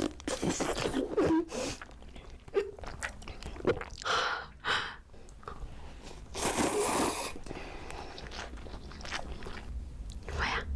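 Close-up eating sounds: a run of crunchy bites and chewing, with a few longer crunching bursts.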